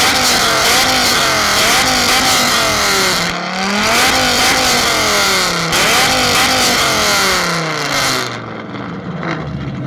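A car engine revved hard over and over, the pitch climbing quickly and sliding slowly back down three or four times with a loud rasp, then easing off near the end.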